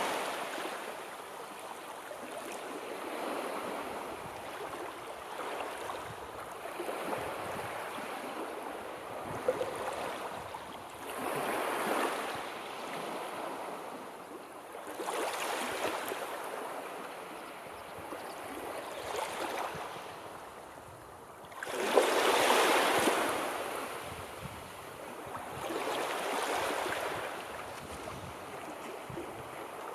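Sea waves surging and washing in, a swell of surf every three to four seconds. The loudest wave breaks with a sharp onset about two-thirds of the way through.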